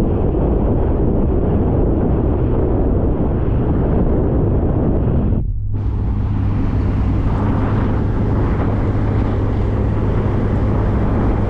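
Open-top MG Midget under way: its four-cylinder engine running steadily under a haze of wind and road noise on the microphone. There is a short dip about five and a half seconds in, after which the engine hum is steadier.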